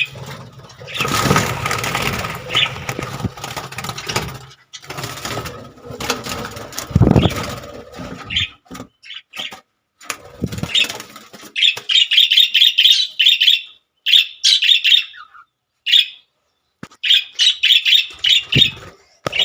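Budgerigar wings flapping and rustling as a budgie is caught by hand, then the bird calling in several runs of rapid, harsh chirps through the second half.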